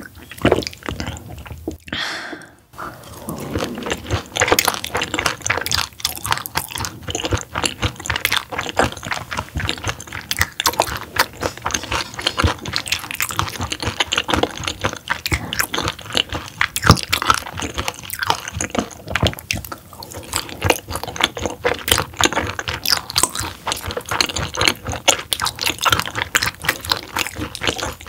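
Close-miked chewing of raw roughscale sole sashimi: a rapid run of wet smacking, squishing mouth clicks. It opens with a sip from a cup, and there is a brief pause about two seconds in.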